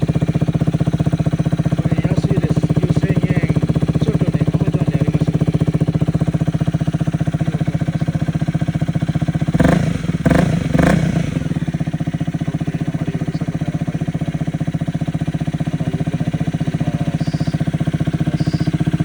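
Honda Rebel 250 motorcycle idling through an aftermarket muffler, with a few quick throttle blips about ten seconds in before it settles back to a steady idle.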